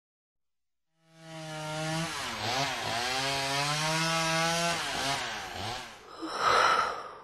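A buzzy, distorted voice-like sound that holds one pitch for long stretches and dips several times, ending in a short harsh burst.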